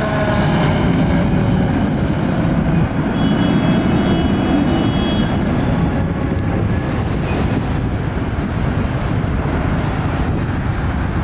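A fire engine's siren winding down and dying away in the first second. Then a steady, loud rumble of heavy engine and road noise as the apparatus drives on.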